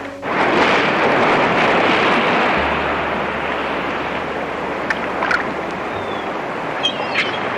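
Steady rushing noise like surf or wind, starting suddenly, with a few short high squeaks about five seconds in and again near the end.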